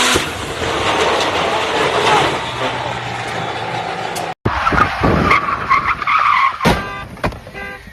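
Car sounds with tyres skidding: a steady rush of engine and tyre noise that cuts out suddenly about four and a half seconds in. A second stretch of car noise follows, with squealing tones and a couple of sharp knocks near the end.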